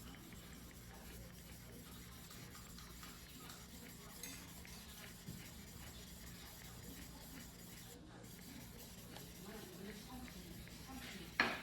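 Faint rubbing and handling sounds of a knife being worked by hand on whetstones, over a low steady hum, with one short sharp knock near the end.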